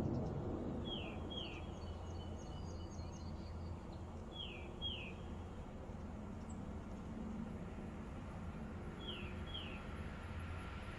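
A bird calling three times, each call a quick pair of short downward-sliding chirps, over a steady low background rumble.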